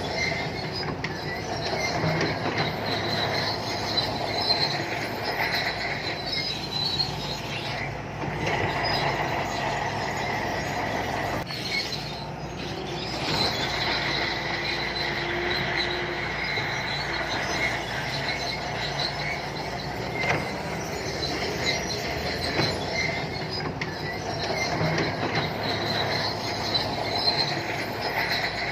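SANTUI crawler bulldozer working, its diesel engine droning under a steady high squeal and clatter from the steel tracks.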